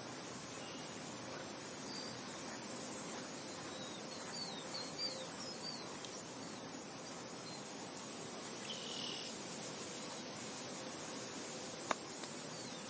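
Steady wind noise, an even hiss, with a few faint bird chirps in the middle and a single sharp click near the end.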